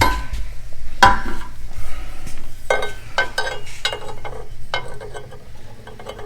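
Stainless steel exhaust pipe pieces being handled and fitted, knocking and clinking against each other and the metal around them. There are about eight sharp metallic knocks in the first five seconds, each ringing briefly.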